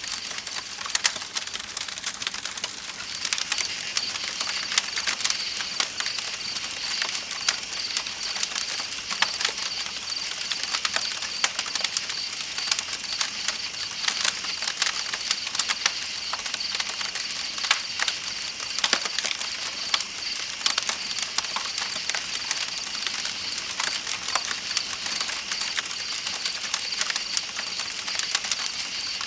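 Campfire crackling with frequent sharp pops over a steady rush of flowing river water, with a high, continuous chirping of night insects that comes up about three seconds in.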